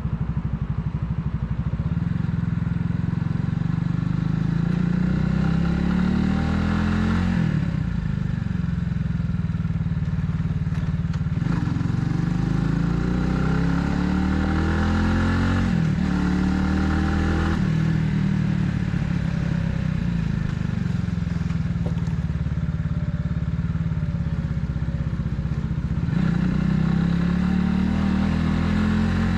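Italika 250Z's single-cylinder engine pulling hard under the rider, the revs climbing and falling back sharply several times as it shifts through the gears, then holding steady before climbing again near the end.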